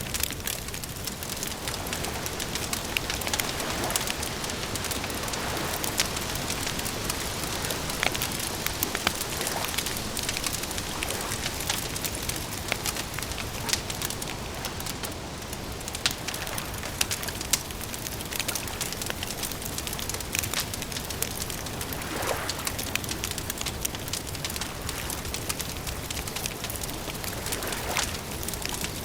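Campfire crackling steadily, with frequent sharp pops over a constant soft hiss.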